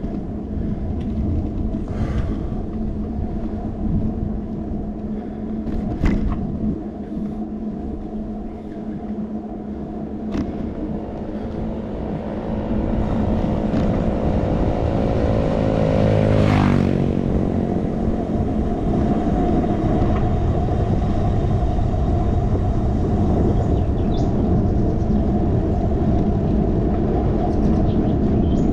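Steady wind and rolling rumble on a handlebar-mounted camera while cycling, with a few sharp knocks from bumps in the road. About two-thirds through, a motor vehicle approaches and passes close by, its engine pitch dropping as it goes past.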